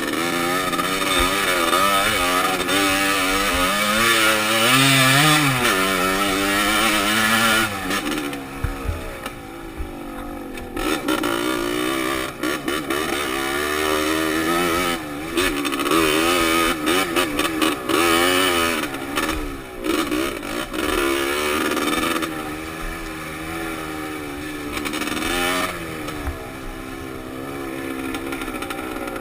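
Dirt bike engine running along a trail, its pitch rising and falling as the throttle is opened and closed. Wind rushes on the helmet microphone, loudest in the first several seconds, and scattered knocks and rattles come through from the rough ground.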